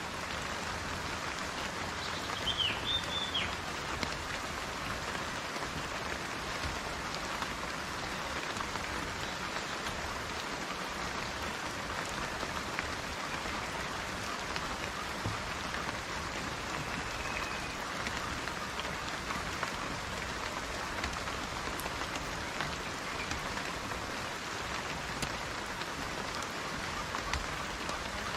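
Steady rain falling and pattering on surfaces, an even hiss of many drops with no letup. A few short, high chirps sound about three seconds in.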